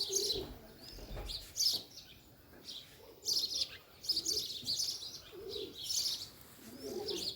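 Birds chirping in repeated short bursts of high notes, with lower calls now and then.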